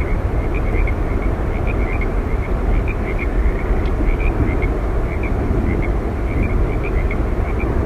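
Steady roar of Yosemite Falls, the waterfall's deep rush of water unbroken, with short high chirps scattered through it several times a second.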